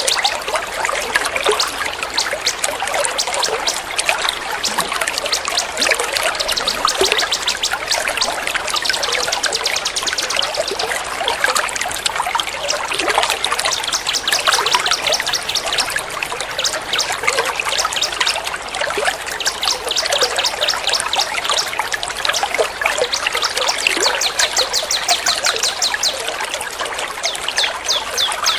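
Trickling water runs steadily under rapid, high, chattering bird calls repeated many times a second, as in a mixed songbird tutoring recording.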